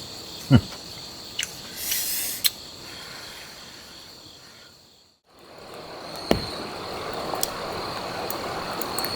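Crickets chirping in a steady high-pitched drone, with a few sharp clicks and knocks. About five seconds in the sound fades out briefly and returns with a louder hiss underneath.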